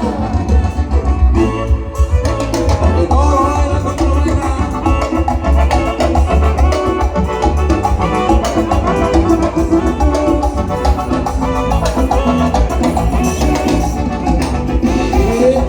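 Live band playing upbeat Latin dance music, with heavy bass, drums and percussion.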